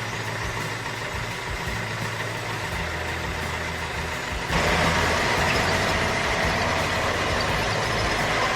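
A vehicle engine running steadily, which turns abruptly louder and brighter about halfway through.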